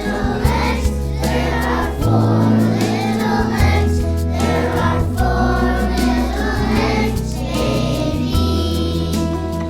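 A group of kindergarten children singing together, with instrumental accompaniment and a bass line that changes note every second or so.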